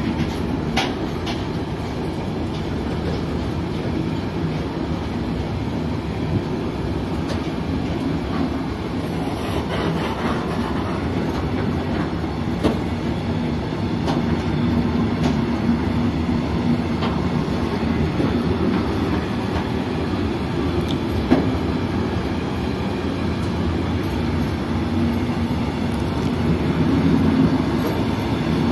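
Freight train rolling past: a continuous steady rumble of wagons on the rails with a low hum, scattered clicks of wheels over rail joints, growing slightly louder near the end.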